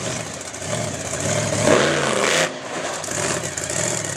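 Monster truck engine revving loudly, the revs swinging up and down about halfway through.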